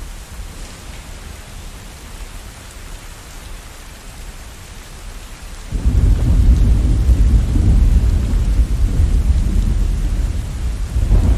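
Steady rain hiss, then a little over halfway a sudden loud, low rumble of thunder that rolls on and swells again near the end.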